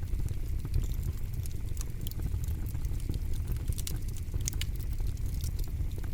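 Campfire crackling: irregular sharp pops and snaps, many each second, over a steady low rumble.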